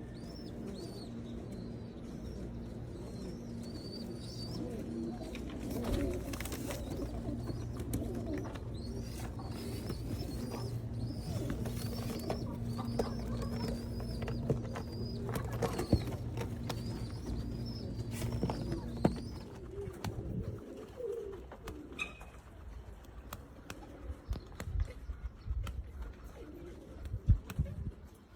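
Qatif pigeons cooing, with high chirps over them and scattered clicks. A steady low hum runs under it and stops about twenty seconds in.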